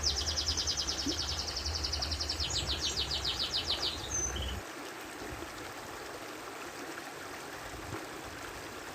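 A small bird singing a fast trill of repeated high notes that stops about four seconds in after one last short note, over a low rumble that cuts off soon after. Then only a steady background hiss.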